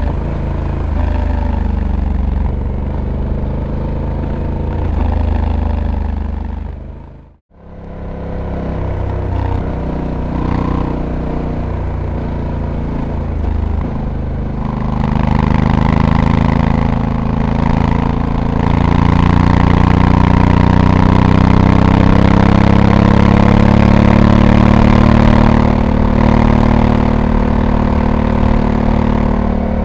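Honda Africa Twin's 1084 cc parallel-twin engine running under load on the road. The sound drops out for a moment about seven seconds in. From about halfway the engine note rises steadily as it pulls, holds loud, then eases near the end.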